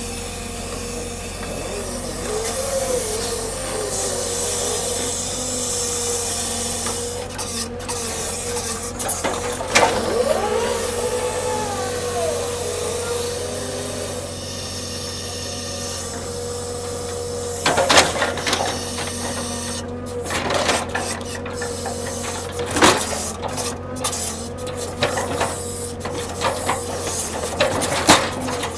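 Hydraulic machinery running during log unloading: a steady high whine over a low hum, wavering briefly in pitch, with a few sharp knocks about ten seconds in, near eighteen seconds, and near the end.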